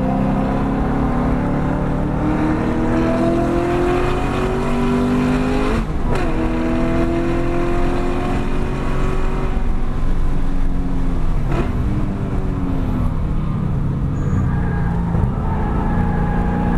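2013 Camaro 1LE's 6.2-litre V8 heard from inside the cabin under hard acceleration, the revs climbing and then dropping sharply at a gear change about six seconds in before climbing again. About twelve seconds in the revs fall away as the car slows for a corner, then start to rise again near the end.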